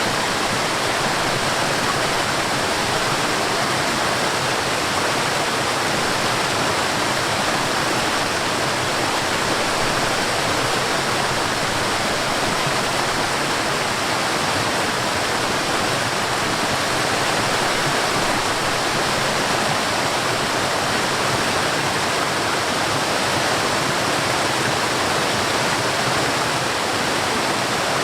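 Forest waterfall: water falling and rushing in a steady, unbroken roar.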